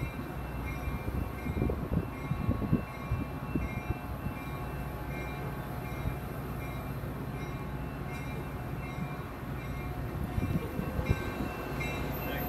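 Metra bilevel commuter train rolling past, a steady low rumble with clusters of sharp knocks, likely wheels over rail joints, near the start and again near the end.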